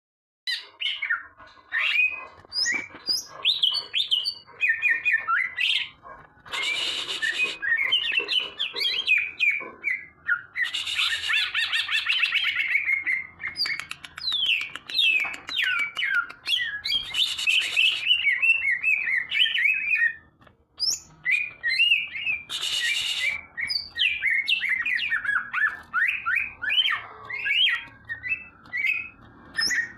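A leafbird singing a fast, varied run of chirps and whistled phrases, broken three times by a harsh, buzzy note about a second long.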